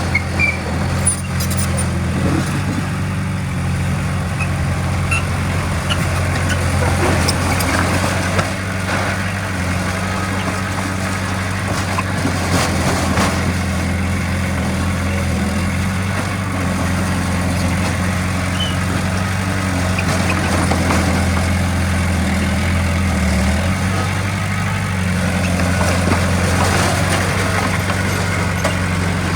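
Heavy diesel engine of earthmoving machinery running steadily at an even pitch, with faint scattered clanks.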